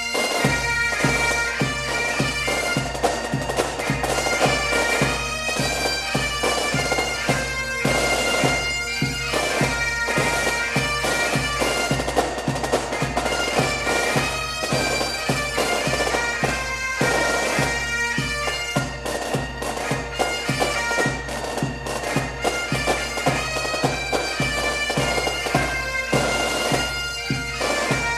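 Bagpipe music: pipes playing a melody over their steady drones, with a drum keeping an even beat about twice a second.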